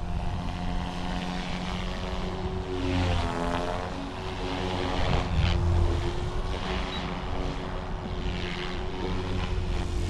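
GooSky RS4 400-size direct-drive electric RC helicopter in flight: a steady whine of its brushless motor and rotor blades. The pitch dips and rises again about three seconds in as it manoeuvres.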